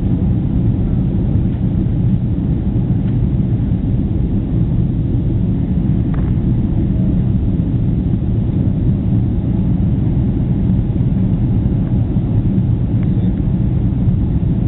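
Airliner in flight, heard from inside the cabin: a steady, loud low rumble of engines and airflow.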